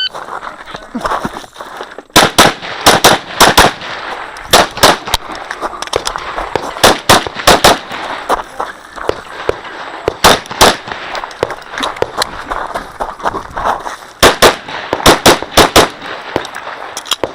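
Glock 34 9mm pistol firing rapid strings of shots, mostly in quick pairs, starting about two seconds in, with short gaps between groups and a dense cluster near the end.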